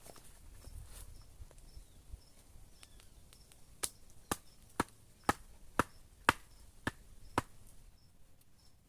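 Eight sharp chopping strikes of a blade into wood, about two a second, starting about four seconds in.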